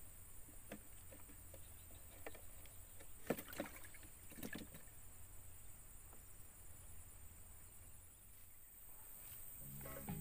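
Faint outdoor background with a low rumble and a few light knocks about three to four and a half seconds in; music starts near the end.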